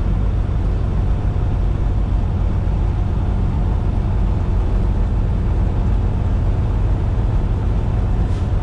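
Semi-truck cab at highway speed: a steady low diesel engine drone with road and tyre noise, unchanging throughout.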